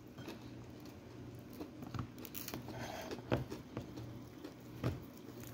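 Faint chewing of a person eating a chicken egg roll, with a few sharper mouth clicks over a low steady hum.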